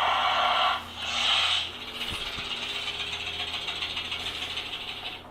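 Battery-powered toy snake switched on, its motor and rattle buzzing. Loud at first, then broken off, then running on fainter with a fast fine rattle.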